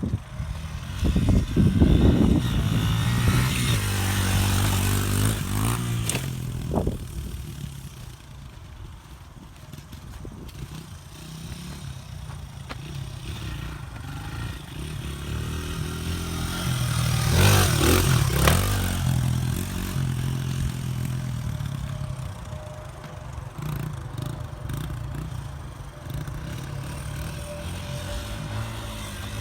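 Pit bike engine revving up and down as it is ridden, loudest about two seconds in and again around eighteen seconds, quieter in between.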